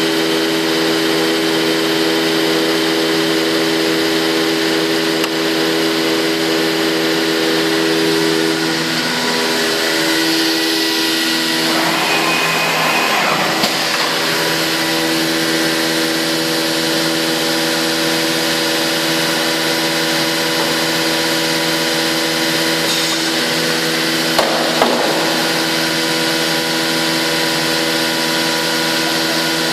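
Biesse Rover 24 CNC woodworking machining center running and machining wood: a steady mechanical sound made of several held tones. The pitch shifts and the sound grows noisier about 9 to 14 seconds in, and a couple of short knocks come near the end.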